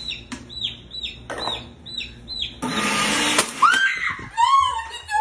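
A chick peeps over and over, each peep high and falling, two to three a second. About two and a half seconds in, a kitchen blender runs in one short burst of under a second. Near the end a person starts laughing.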